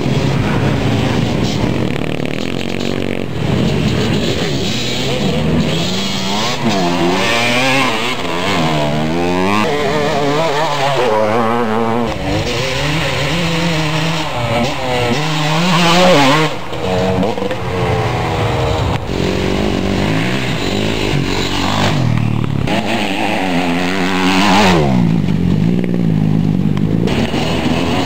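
Several motocross motorcycle engines revving and accelerating, their pitches rising and falling over and over and overlapping one another.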